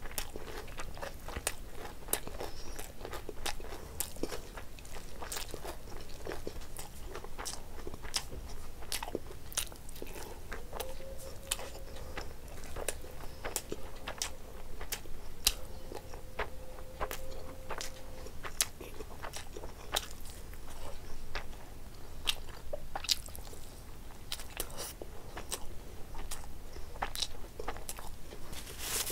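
A person chewing and biting a mouthful of rice and curry eaten by hand, with many sharp mouth clicks and crunches.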